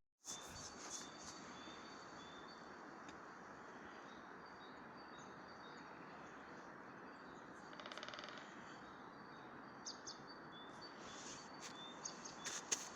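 Faint outdoor ambience with a steady hiss and small birds giving short, high chirps again and again. A brief rapid trill comes about eight seconds in.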